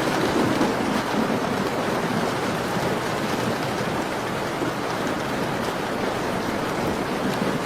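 Steady rain falling against a window, an even hiss of drops.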